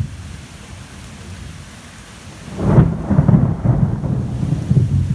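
Thunder rumbling over steady heavy rain: a loud, low rumble breaks in suddenly about halfway through and keeps rolling, above an even hiss of pouring rain.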